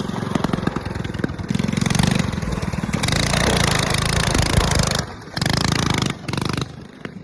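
Mini bike's small gas engine running and being revved, held high for a few seconds, then two short throttle blips before it drops back down near the end.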